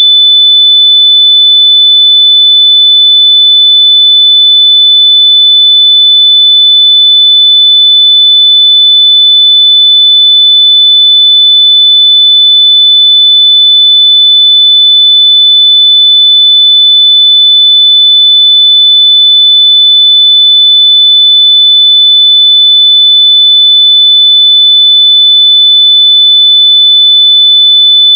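A single continuous high-pitched beep, a pure electronic tone held steady at one pitch without a break, played at full volume as an earbud-finding signal.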